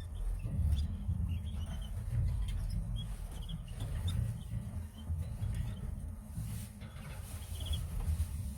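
Canaries giving short, high chirps now and then, with a brief trill near the end, over a steady low rumble.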